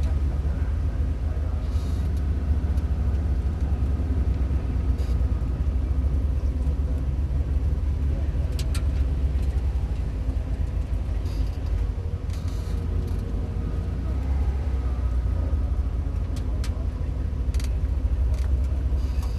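Mazda MX-5 race car's engine running steadily at low revs, a deep continuous drone, with a few sharp clicks and ticks here and there.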